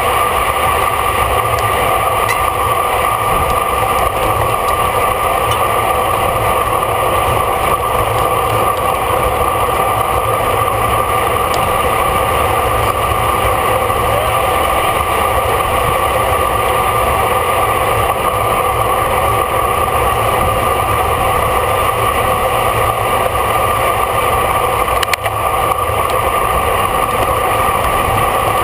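Steady wind rush and road rumble of a racing bicycle at speed, picked up by a camera riding on the bike, with a constant hum over it.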